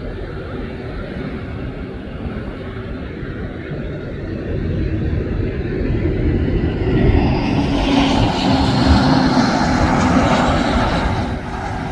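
Jet airliner passing close by: the engine noise builds from about four seconds in, stays loud for several seconds with a low hum under it, then falls away sharply near the end.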